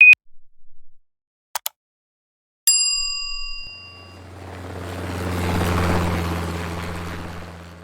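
Outro sound effects: a short high beep and a few clicks, then a single bell-like ding that rings out, followed by a low rumbling whoosh that swells and fades away.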